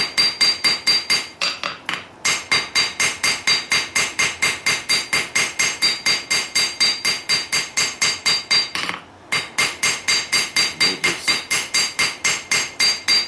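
Rounding hammer striking hot steel on an anvil in a steady run of blows, about four a second, each with a ringing tone. The steel is being spread to widen the razor blade. The hammering pauses briefly about two seconds in and again about nine seconds in.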